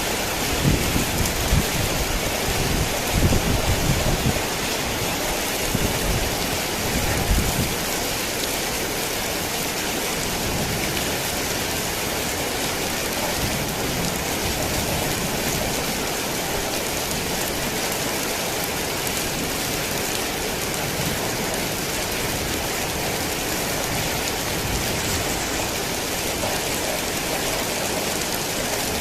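Heavy rain falling steadily, an even hiss of drops. Low rumbles of thunder run under it for the first seven seconds or so, then fade out.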